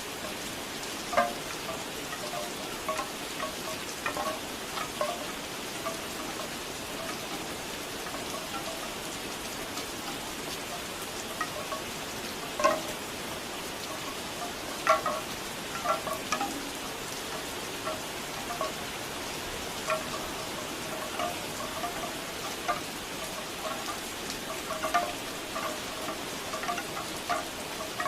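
Bamboo wind chimes knocking irregularly with short, hollow clacks over steady rain, a few strikes standing out louder than the rest.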